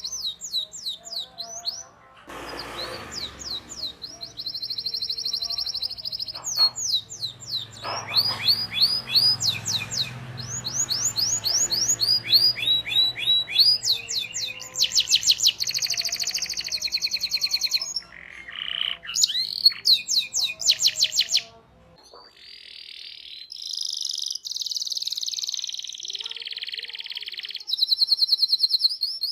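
Domestic canary singing long, rapid rolls and trills of repeated high chirps, phrase after phrase with brief gaps. Low background hum drops out abruptly about two-thirds of the way through.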